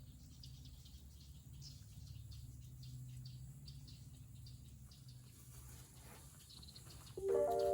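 Faint outdoor ambience: a low steady rumble with scattered faint high chirps. About seven seconds in, background music with sustained notes starts abruptly and much louder.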